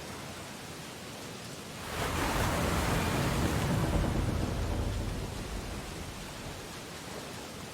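Ocean waves on a beach: a steady hiss of surf, with one wave breaking about two seconds in, swelling and then washing away over the next few seconds.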